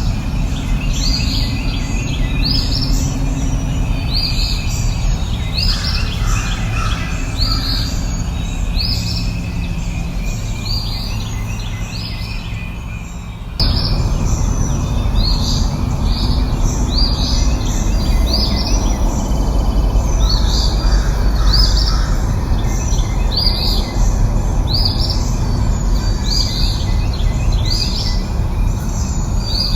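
Birds calling with short chirps repeated about once a second over a steady low rumble. The sound jumps abruptly louder about halfway through, like a splice in the recording.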